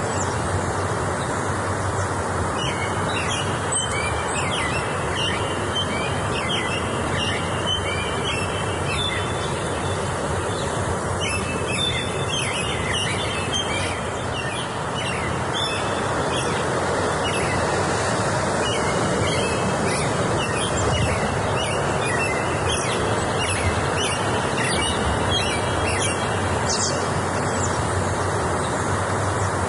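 Many birds chirping and singing in quick overlapping phrases, over a steady rushing background noise.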